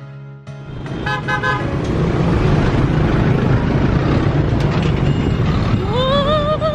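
Busy city street traffic with a steady loud rumble of engines and tyres. Vehicle horns honk: three quick toots about a second in, and a longer wavering honk near the end.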